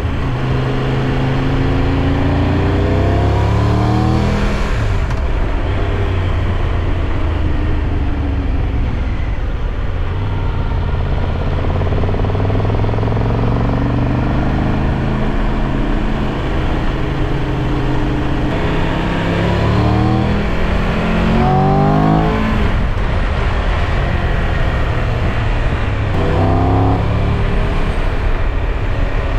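Triumph Tiger 1200 Rally Pro's three-cylinder engine pulling through the gears: the engine note rises, drops back at each upshift and climbs again, in several bursts with a steadier cruise in the middle stretch, over a constant rush of road and wind noise.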